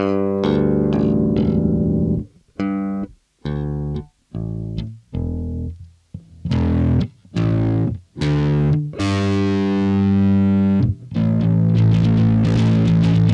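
Harley Benton MB-4 electric bass played unaccompanied: a string of separate plucked notes broken by short stops, then a long held note, then a denser, noisier passage near the end.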